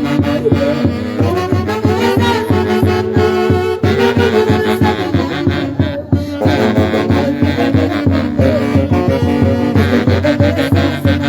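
Live dance music from a brass-and-saxophone orquesta from Huancayo, playing a melody over a steady, driving beat.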